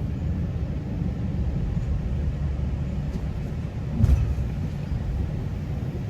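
Steady low rumble of a GO Transit commuter train rolling along the track, heard from inside the coach, with a single thump about four seconds in.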